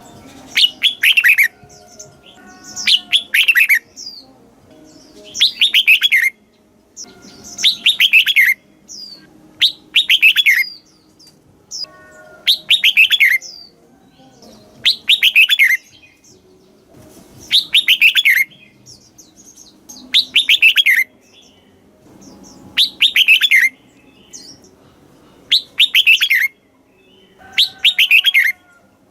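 Red-whiskered bulbul singing loud, clear song phrases, one about every two and a half seconds, each a quick falling run of notes.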